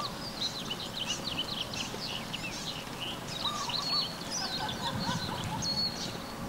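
Several birds chirping at once: a steady stream of short, high twittering chirps with a few lower whistled notes, over a soft outdoor background hiss.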